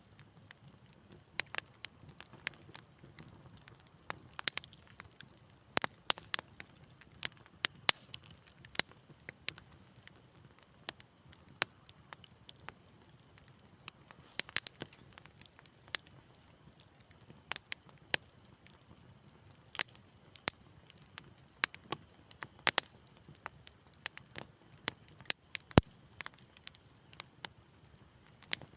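Wood fire crackling in a fireplace: irregular sharp pops and snaps, a few a second, over a faint low rumble of flame.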